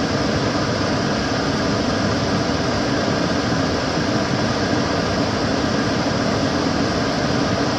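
Kitchen cooker hood extractor fan running steadily: an even rushing of air with a faint motor hum, unchanging throughout.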